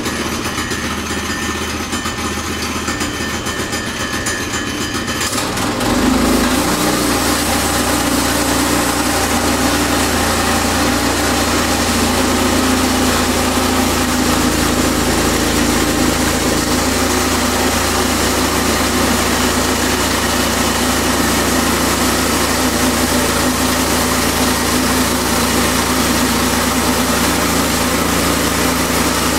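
Small gasoline engine of a portable sawmill running steadily. About six seconds in it turns louder and fuller and holds there.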